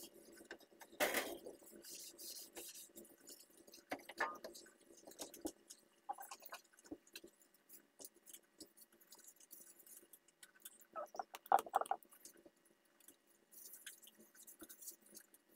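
Faint, scattered scrapes, clicks and rustles of hands working inside an oven while cleaning it with a spray degreaser, with a few louder bursts about a second in, around four seconds and around eleven to twelve seconds.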